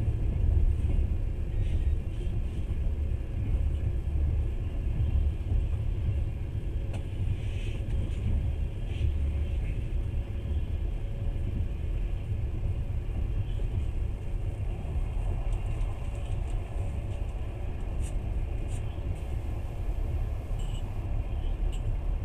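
Moving passenger train heard from inside the carriage: a steady low rumble of wheels on track, with a few faint higher clicks now and then.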